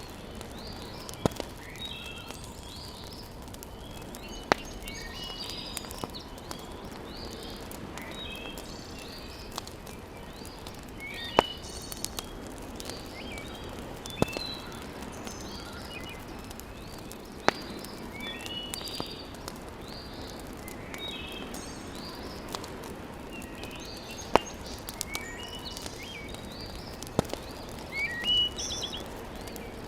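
Wood fire crackling in a fireplace, with sharp pops every few seconds over a steady low hiss, while small birds chirp and sing throughout.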